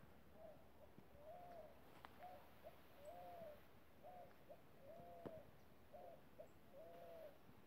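A bird calling faintly in a steady series of low, hooting notes, about one to two a second, some notes rising and falling and some short, with a few sharp clicks between them.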